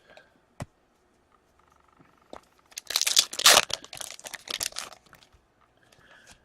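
A trading-card pack wrapper being torn open and crinkled: a burst of rustling and tearing lasting about two seconds near the middle, after a few light taps.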